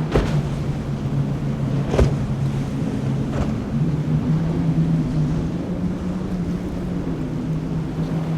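Motorboat engine running steadily with a low hum, over wind on the microphone and surf. A sharp thump comes just after the start and a louder one about two seconds in.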